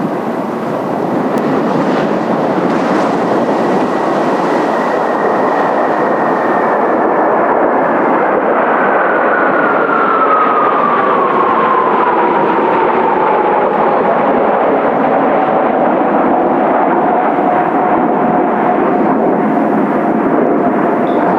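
A formation of Kawasaki T-4 jet trainers making a low pass: loud, steady jet roar with a turbofan whine that falls in pitch about halfway through as the jets go by, then holds lower.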